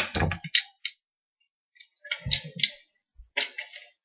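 Plastic Lego pieces clicking and rattling as they are handled, in three or four short bursts with pauses between.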